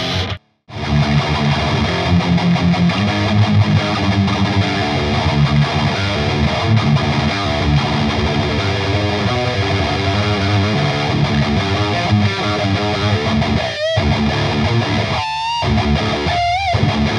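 Distorted high-gain electric guitar, a Jackson Kelly, played through a simulated Marshall-style 4x12 cabinet impulse response. It plays dense riffing after a brief dropout just after the start, and near the end it has held notes with wide vibrato.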